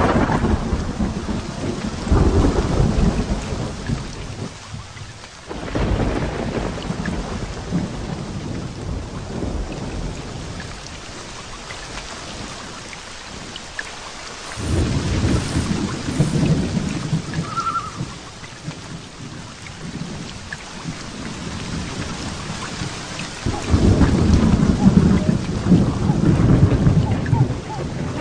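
Heavy rain falling steadily through a thunderstorm, with several long rolls of low thunder swelling and fading over it; a sharp clap opens it and the loudest roll comes near the end.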